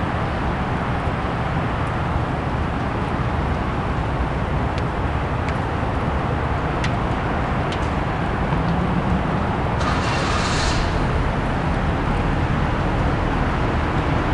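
Steady outdoor rumble and hiss of road traffic, with a few faint clicks and a brief louder hiss about ten seconds in.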